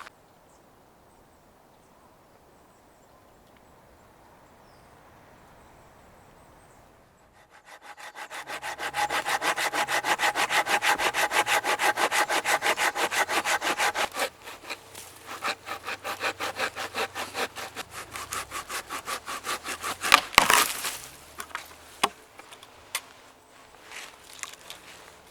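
A hand saw cutting through a log of firewood. It starts about seven seconds in with fast, even strokes, then slows to irregular strokes, with one sharp crack of the wood about twenty seconds in.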